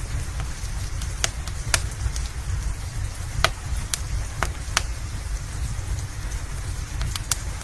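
Steady rain mixed with a crackling wood fire in a fireplace: sharp, irregular pops every half second or so over a continuous low rumble.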